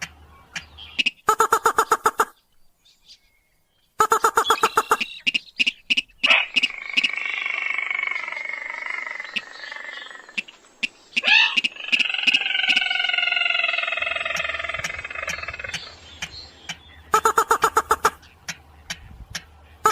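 Slaty-breasted rail (mandar padi sintar) calls from a lure recording: short bursts of rapid ticking pulses, then two long, slowly falling squealing calls laced with sharp clicks, and more quick ticking bursts near the end.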